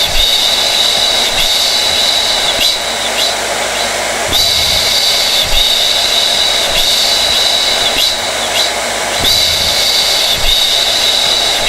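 Hair dryer running steadily: a loud rushing blow with a high whine on top. The whine swells in the same pattern about every five seconds.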